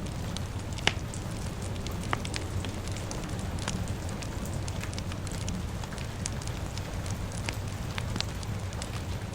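Fire crackling over steady rain: a low steady rumble and hiss under scattered sharp pops. The loudest pop comes about a second in.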